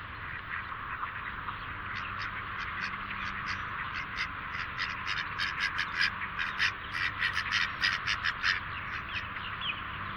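A flock of ducks and other waterbirds calling around a feeding spot, over a steady background hiss. From about two seconds in until near the end comes a quick run of sharp clicks, several a second.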